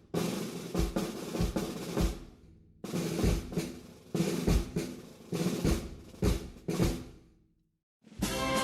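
Marching band percussion, snare and bass drum, beating a slow processional march rhythm in two phrases with a short break between them. The drums die away to silence, and the full band with brass comes in right at the end.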